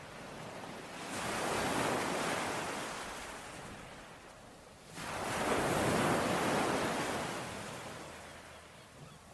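Ocean waves breaking on the shore, twice: one swells up about a second in and washes out slowly, and a second one crashes in suddenly about five seconds in and fades away.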